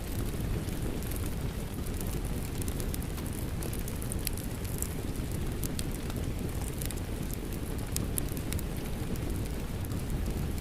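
Fireplace crackling, frequent sharp pops and snaps over a steady low rumble, blended with steady rain.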